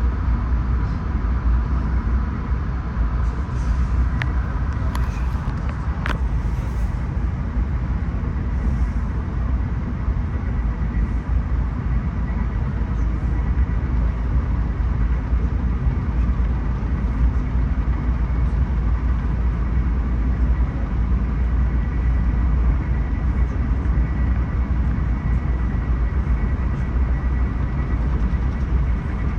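Steady running noise of a moving passenger train heard from aboard a Bombardier LRC car: a low rumble of wheels on rail with a faint steady whine above it and a couple of light clicks a few seconds in.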